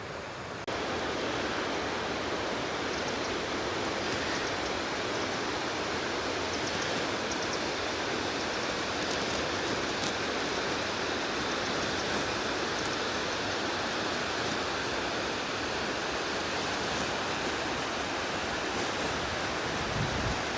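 Steady, even rush of running water from the river and waterfalls in the glen. It grows a little louder just under a second in.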